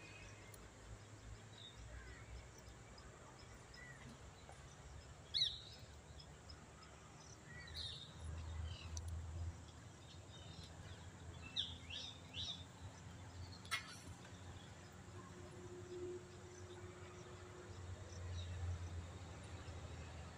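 Faint outdoor ambience: scattered short high bird chirps over a low rumble, with one sharp click about two-thirds of the way through.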